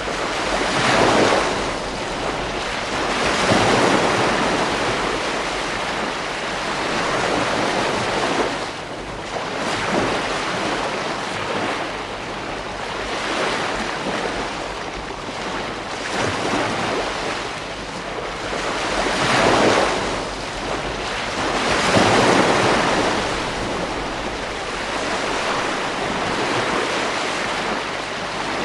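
Ocean waves breaking on a beach: a continuous wash of surf that swells with each breaker every few seconds and then ebbs.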